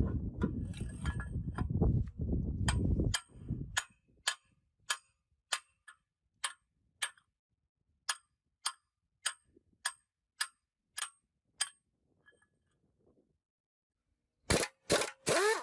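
Metal-on-metal workshop sounds from tractor gearbox parts being worked on. A rough rumbling stretch with clicks gives way at about four seconds to a steady series of light clicks, about two a second. A quiet gap follows, then loud clanging strikes that ring near the end.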